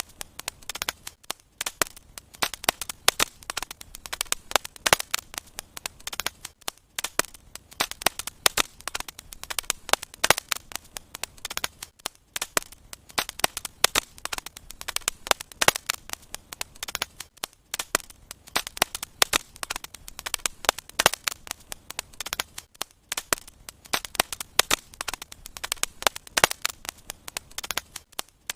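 Wood fire crackling and popping in a fireplace: a dense, irregular run of sharp snaps and pops with a few brief lulls.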